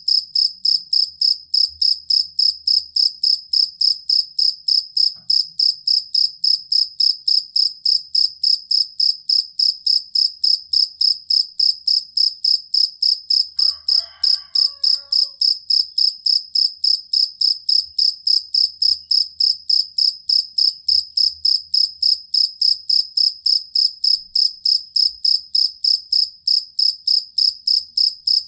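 Field cricket (jangkrik kalung) calling: a steady, even train of short high-pitched chirps, about three to four a second, without a break.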